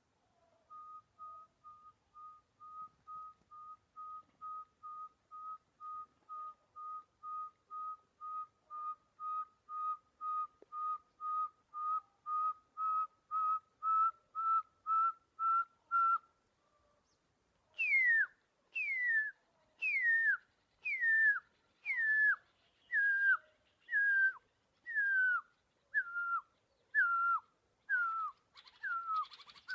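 Whistled imitation of a pearl-spotted owlet's song. A long run of short notes, about two a second, starts softly and grows steadily louder, rising a little in pitch. After a brief pause come about a dozen louder whistles, about one a second, each sliding down in pitch.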